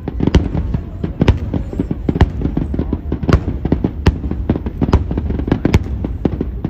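Fireworks going off in a rapid barrage: many sharp bangs and crackles, several a second, over a continuous low rumble.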